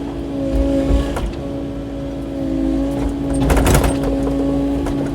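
Kubota KX080-4 excavator's diesel engine and hydraulics running under load with a steady hum, while the bucket knocks and scrapes against rock and brush, with a burst of clattering about three and a half seconds in.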